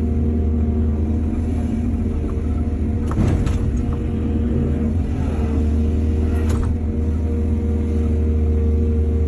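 Excavator's diesel engine running steadily under work, with two short clanks of metal or soil impact, one about three seconds in and another a few seconds later.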